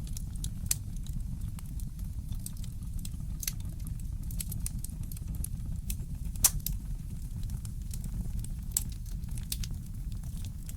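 Wood fire crackling in a fireplace: scattered sharp pops at irregular intervals, the loudest about two-thirds of the way through, over a steady low rumble.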